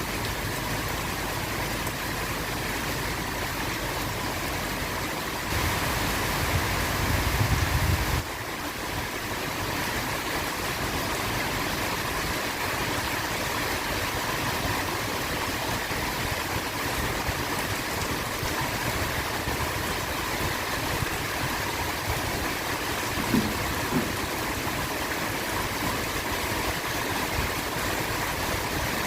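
Steady rain hiss, with a low rumble of thunder about six seconds in that lasts two or three seconds and cuts off suddenly.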